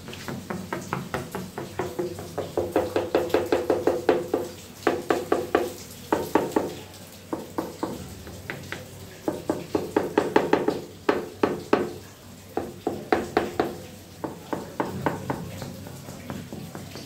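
Ceramic tiles being tapped in short runs of rapid knocks, about five or six a second, each knock ringing briefly: a tap test for hollow spots (voids) in the bedding behind the tiles.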